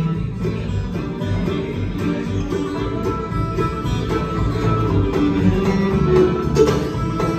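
Live bluegrass band playing, with acoustic guitar and banjo picking.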